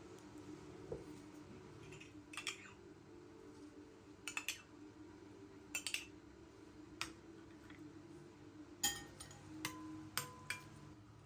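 Kitchen clatter: dishes and cutlery clinking and knocking, a dozen or so sharp clicks with one ringing briefly about ten seconds in, over a steady low hum.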